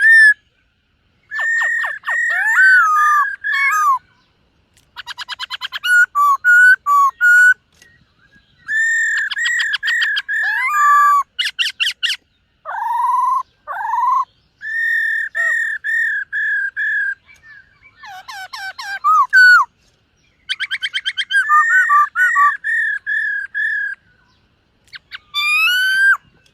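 Black-throated laughingthrush singing a run of loud whistled phrases, each a couple of seconds long, made of repeated clear notes and quick trills, with short pauses between them.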